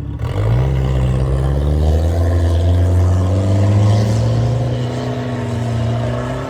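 Volvo 740 Turbo's turbocharged four-cylinder engine pulling hard under load during a rally run. Its pitch climbs quickly in the first half second, then holds high and steady.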